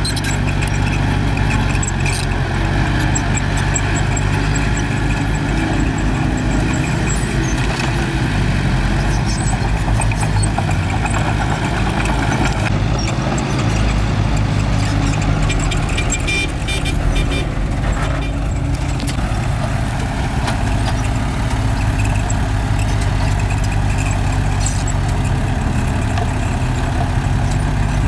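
Bulldozer's diesel engine running steadily under load, a deep even drone, with scattered light metallic clicks over it.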